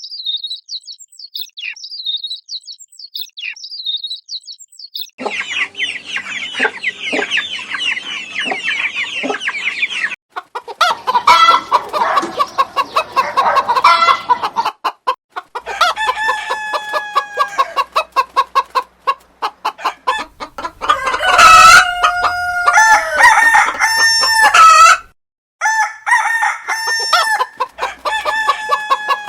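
Chickens clucking and calling, with a rooster crowing, in several separate clips joined by abrupt cuts. The loudest calls come near the end.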